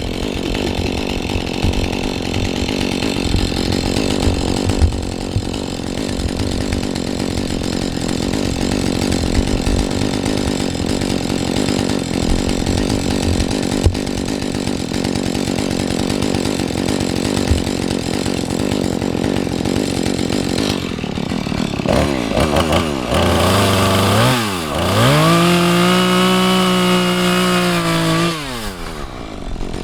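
Two-stroke chainsaw cutting into a tree trunk under load, a steady rough drone. About 21 seconds in it comes free of the wood: the engine pitch swings up and down, holds high at full revs, then drops back near the end.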